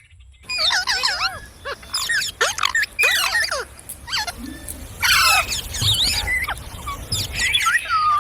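Ringneck parrot chattering in a rapid run of squeaky, up-and-down whistled calls, starting abruptly about half a second in.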